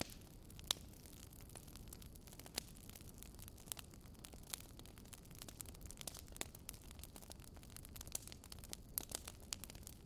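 Fireplace fire crackling softly, with many small irregular pops and snaps over a faint low rumble.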